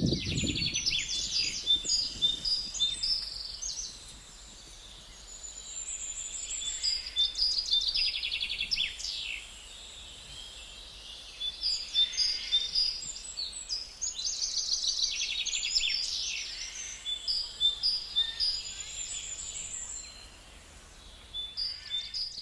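Songbirds singing: phrases of high chirps and fast trills a few seconds long, with short lulls between them.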